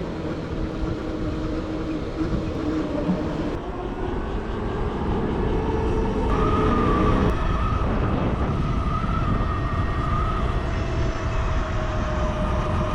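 Motorcycle ride heard from the rider's own microphone: steady wind and road rumble with engine or drivetrain tones. It grows louder about five seconds in, as the bike picks up speed.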